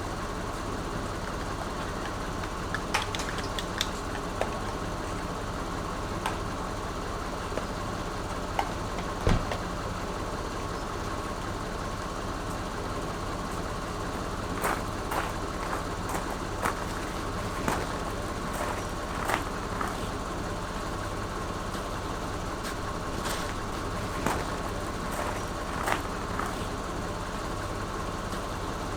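A steady machine-like hum with a constant tone, overlaid by scattered sharp clicks and knocks, more frequent in the second half.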